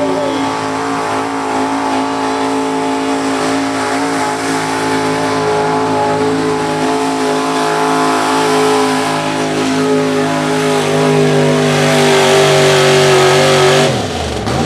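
Allis-Chalmers WC tractor's four-cylinder engine working hard under load down a pull track, running steadily and growing louder toward the end. About a second before the end the engine drops off suddenly, falling in pitch as it is throttled back.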